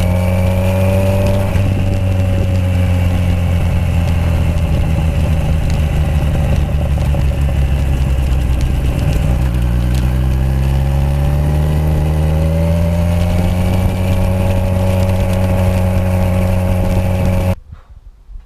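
Kawasaki Z1000's inline-four engine running through a Toce aftermarket exhaust on the road. The exhaust note sinks slowly, climbs again as the revs rise, then holds steady before cutting off about a second before the end.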